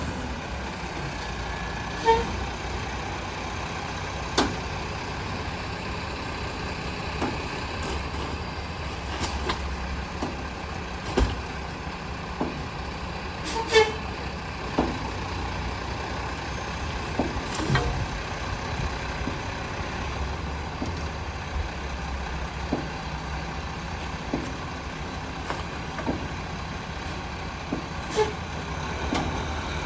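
International HV rear-loader garbage truck's diesel engine running steadily, with half a dozen sharp knocks and clanks scattered through it.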